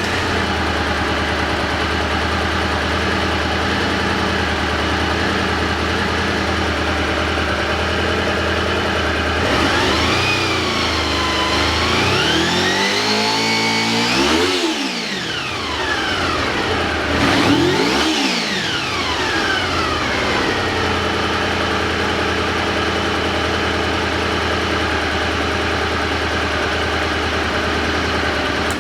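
Honda VFR400R NC21's V4 engine idling through its exhaust, then revved: a slow climb about ten seconds in that peaks and drops back around fourteen seconds, and a quick blip a few seconds later, before it settles back to a steady idle.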